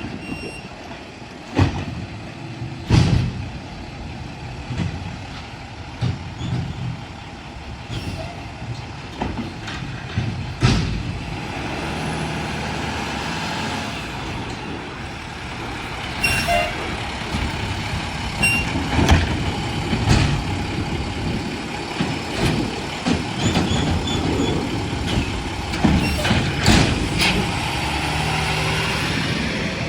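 Mack LR garbage truck with a McNeilus side-loader body working its route: the engine runs steadily and builds up in level about halfway through, with several sharp bangs and knocks and air-brake hisses.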